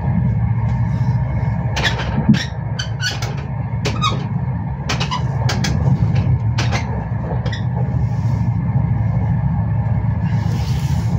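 Intercity passenger train running on the rails, heard inside the coach: a steady low rumble with a scatter of short clicks and squeaks through the middle, and a brief hiss near the end.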